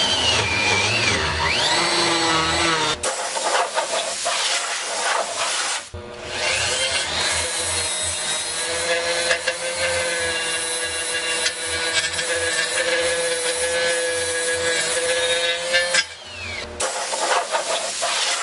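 A power tool running under load as it polishes aluminum engine parts, a steady motor tone over rubbing noise, with the pitch shifting now and then. The sound breaks off abruptly a few times.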